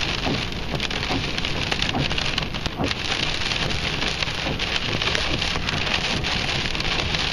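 Storm noise: heavy rain and wind-driven spray pattering steadily, dense with small, sharp drop hits.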